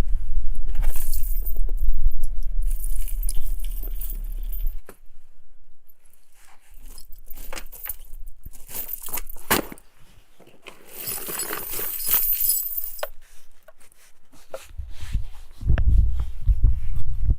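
Jangling, clinking metal and clatter as things are handled, with a low rumble during the first few seconds and again near the end.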